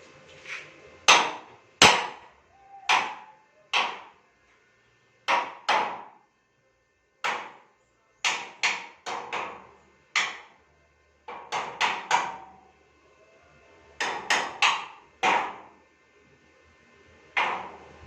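A hammer striking metal about two dozen times in irregular groups, with a brief metallic ring after each blow and short pauses between groups.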